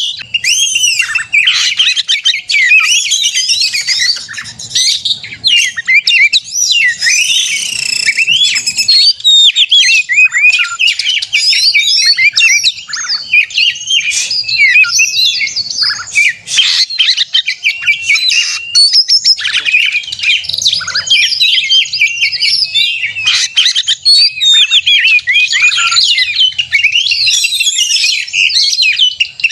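Oriental magpie-robin (kacer) singing non-stop in agitated 'gacor konslet' fighting mode. It is a rapid, unbroken stream of varied whistles, chirps and short rattles, the song of an excited, territorial male.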